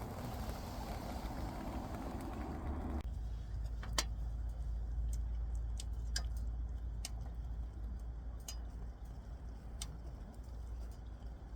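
A wood fire crackling, with scattered sharp pops over a low steady rumble. It follows an abrupt cut about three seconds in from a steady hiss, as of something cooking.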